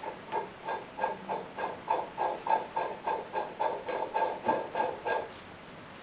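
Riding-mower deck spindle bearing turned by hand, giving a rough, even clicking grind about three times a second that stops a second before the end. The bearing is dry and worn: it drags and grinds instead of spinning freely.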